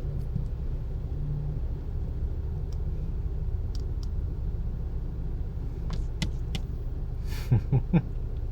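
Steady low rumble of an idling car, heard from inside the cabin, with a few light taps and clicks scattered through it and three short, louder pitched sounds near the end.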